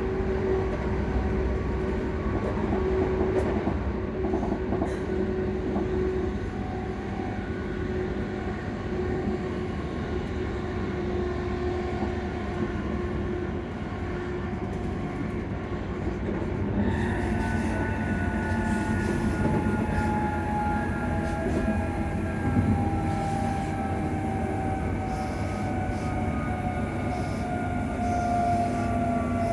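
Cabin sound of a ScotRail Class 334 electric multiple unit under way: steady running rumble with electrical humming tones. About halfway through, a higher-pitched traction whine sets in and slowly falls in pitch as the train slows for its next stop.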